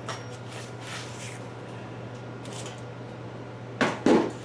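Tools and metal parts being handled: faint rustling and light clicks over a steady low hum, then two loud knocks a little before the end.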